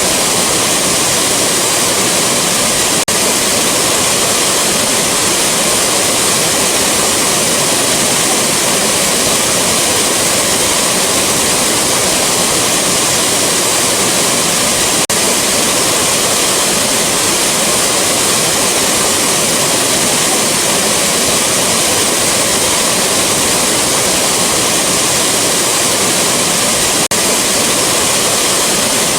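Rushing waterfall: a loud, steady roar of falling water with a bright hiss, unchanging throughout.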